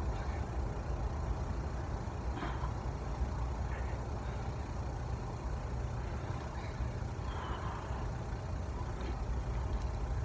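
Steady low rumble of an idling heavy vehicle engine.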